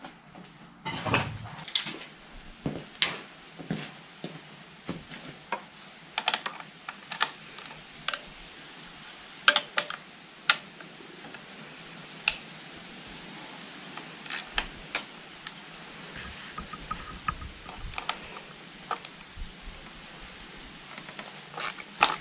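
Irregular clicks and light knocks of hand tools and small metal parts being handled during motorcycle repair work.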